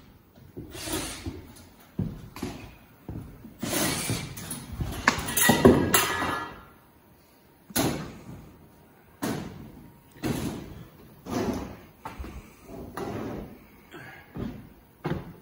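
A series of knocks and thuds from heavy building parts being handled, with a longer scrape about four to six seconds in, then knocks roughly once a second.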